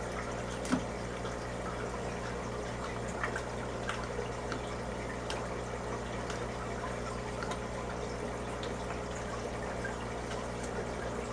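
Aquarium water trickling and bubbling steadily, with small scattered drips and pops over a steady low hum from the tank's pump.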